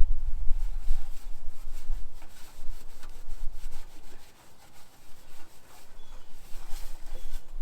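Hand scrubbing: a rag or pad rubbed back and forth over a part to clean it, in quick irregular strokes.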